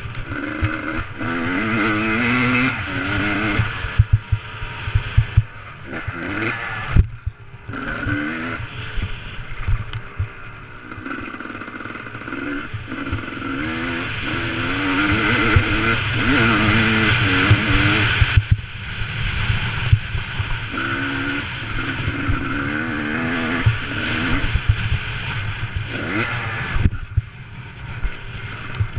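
Motocross bike engine revving up and down as it is ridden, with the throttle shut off briefly a few times. Sharp knocks and clatter are heard throughout.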